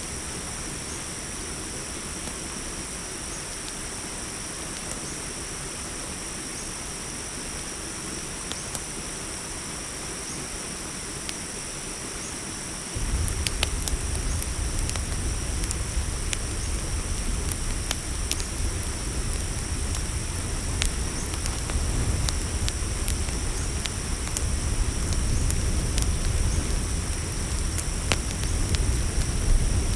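Night ambience of a steady cricket chorus with a crackling campfire. About halfway through, a low rumble cuts in suddenly and the crackles and pops become much more frequent.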